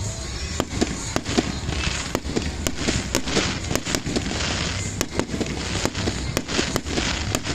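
A fireworks display going off: a quick, irregular string of sharp bangs and crackles, coming thick from about half a second in, over a steady low rumble.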